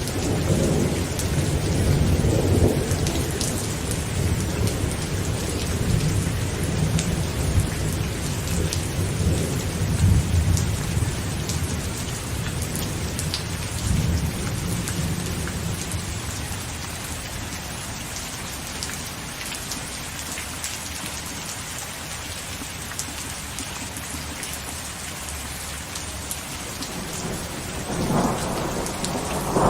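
Heavy rain falling on a tent, with fine drop taps, while thunder rumbles low through the first half and fades away. Near the end a new, louder roll of thunder builds.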